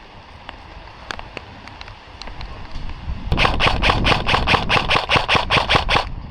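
Airsoft electric gun (AEG) firing close by: a rapid, even string of about sixteen shots starting about three seconds in and stopping abruptly, with faint scattered shots from farther off before it.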